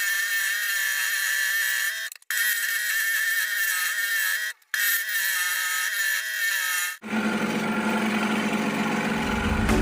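A small power tool's motor whining steadily at high speed on wood, with two brief dropouts. About seven seconds in, a different, lower-pitched power tool takes over.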